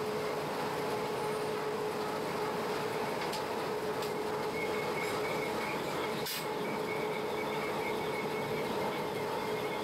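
Historic SBB electric train running uphill, heard from inside the driver's cab: a steady rumble of wheels on rail with a constant hum. A higher faint whine joins about halfway through, and there is a single sharp click a little after that.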